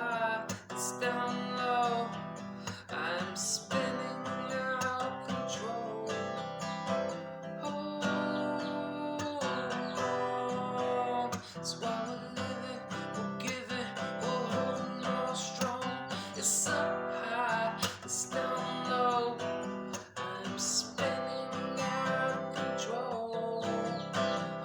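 Acoustic guitar strummed, playing a song.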